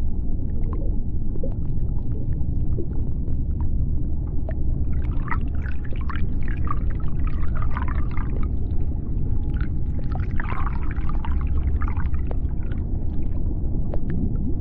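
Underwater sea-floor soundscape: a deep, steady rumble with scattered clicks and crackles. Squeaky, warbling calls come in two clusters, about five seconds in and again about ten seconds in.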